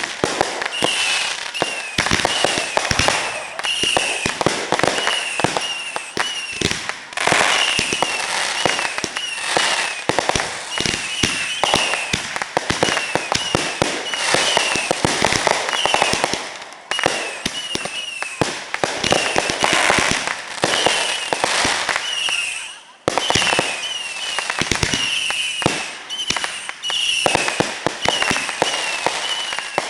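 Firecrackers going off in a long, dense run of rapid cracks and pops, with short whistling tones recurring over them and a brief lull about 23 seconds in.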